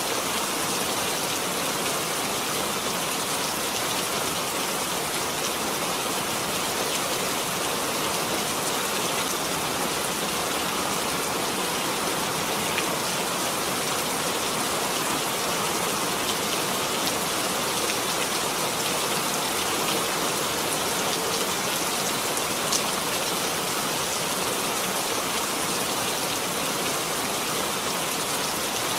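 Steady rain, an even hiss of falling drops with a few faint separate drop ticks.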